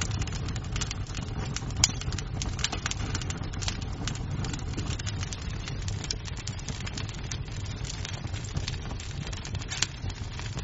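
Wood fire in a fireplace crackling over a low rumble, with a sharper pop about two seconds in and another near the end.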